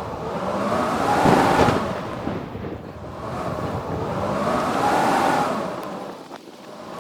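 Howling blizzard wind coming in two long gusts, each swelling and dying away, its moaning pitch rising and then falling with every gust.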